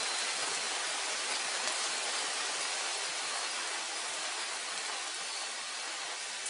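Steady rushing-water noise, even and hissy, easing off slightly toward the end.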